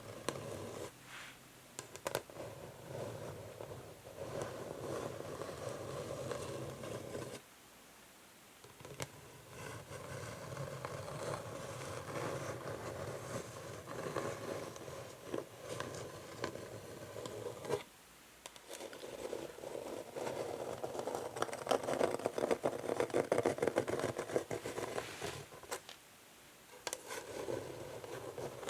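Natural fingernails scratching slowly across an old wooden chess board, in long strokes with a few short pauses and the odd sharp click.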